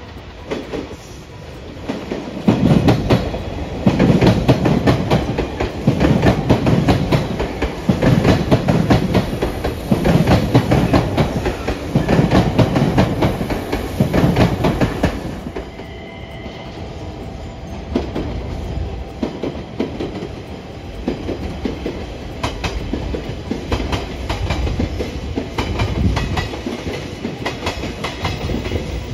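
A train passing, its wheels clacking over the rail joints in a steady rhythm of about one heavy beat every second and a half. The clatter is loud at first and softens about halfway through.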